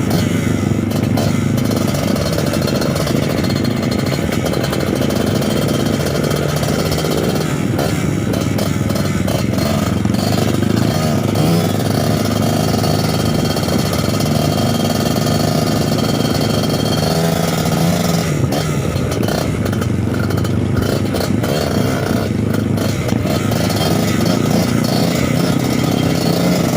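Suzuki TS 125 two-stroke trail motorcycle engine running under way, its pitch rising and falling as the throttle is worked.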